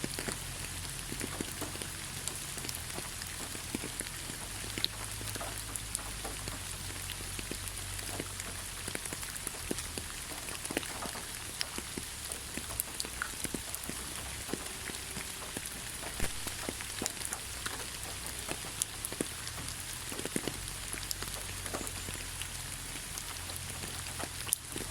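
Steady rain falling on leaves: a constant patter with many separate drop ticks scattered irregularly over a low rumble.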